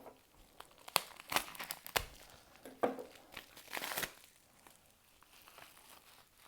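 Packaging around a trading card being crinkled and torn open by hand: a run of sharp crackles and snaps for about four seconds, then fainter rustling.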